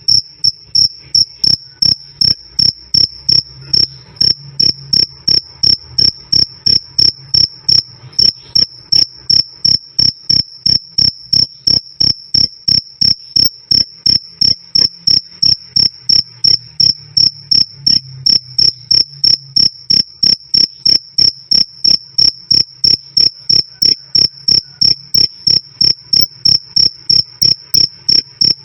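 Male cricket (jangkrik) chirping loudly and steadily: short, clear, high-pitched chirps repeating evenly, about two and a half a second.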